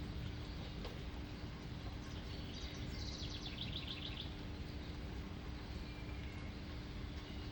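A songbird sings a quick run of high, fast notes about two and a half seconds in, with a few fainter chirps later, over a steady outdoor hiss and a faint low hum.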